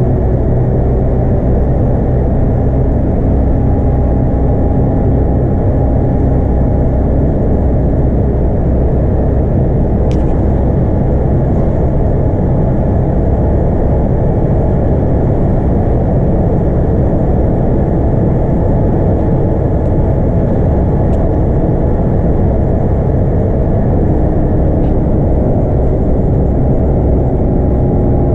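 Scania DC9 five-cylinder diesel engine of a Scania K230UB bus running steadily under way, with road and tyre noise, heard from inside the bus. A faint click comes about ten seconds in.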